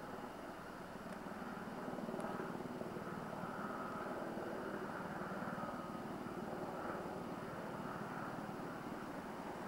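Helicopter flying overhead and circling: a steady drone of rotor and engine that grows slightly louder about two seconds in.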